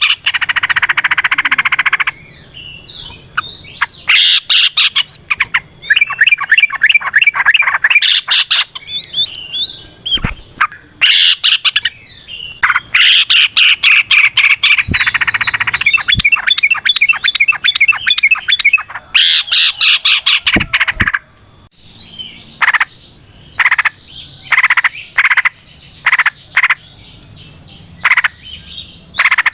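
Yellow-vented bulbul (trucukan) singing long, rapid bubbling phrases in loud bursts a second or two long with short gaps between, turning to shorter, scattered notes in the last few seconds.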